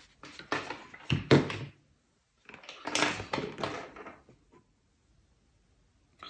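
Clicks, taps and knocks of small plastic detector parts and tools being handled and fitted together on a workbench, coming in clusters, then about a second and a half of dead silence.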